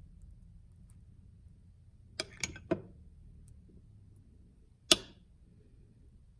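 Kitchen clatter: three quick sharp knocks about a quarter second apart about two seconds in, then a single louder knock a couple of seconds later.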